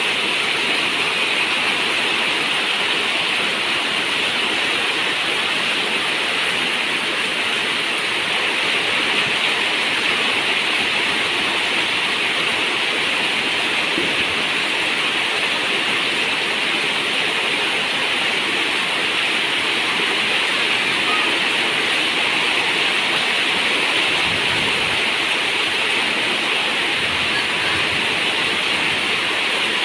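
Heavy rain falling steadily on a zinc roof, an even, unbroken hiss of water.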